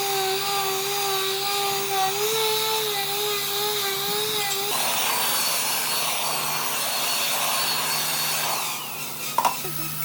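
A power tool's motor whines steadily with a slightly wavering pitch. From about halfway it gives way to a rougher, grainier noise as the tool works wood. The tool winds down near the end, followed by a couple of sharp knocks.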